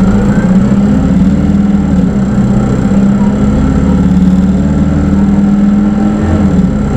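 Hino Rainbow II bus's diesel engine and automatic drivetrain running steadily, heard from inside the cabin. The engine's pitch dips briefly near the end.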